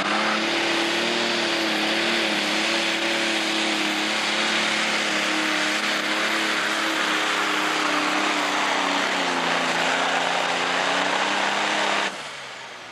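Pro stock pulling tractor's turbocharged diesel engine at full power hauling the sled down the track, its pitch slowly sagging as the load builds. The sound drops away suddenly near the end.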